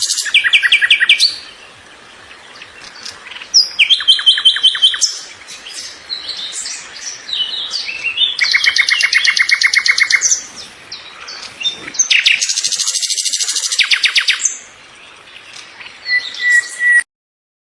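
Songbird song: several bursts of fast, evenly repeated high notes, a trill every few seconds, with shorter chirps in between. The sound cuts off suddenly near the end.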